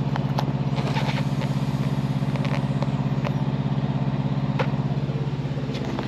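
Ford Fox-body Mustang's V8 running at a high, uneven idle with a steady pulsing beat. The distributor has just been dropped in and not yet adjusted, no MAP sensor is fitted yet, and a vacuum leak has been spotted.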